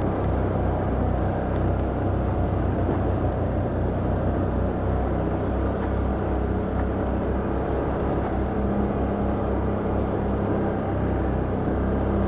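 Can-Am Outlander ATV engine running steadily while riding, a continuous low drone.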